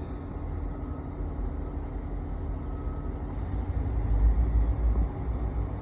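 Diesel freight locomotives working up a steep grade: a steady low engine rumble that grows louder about four seconds in.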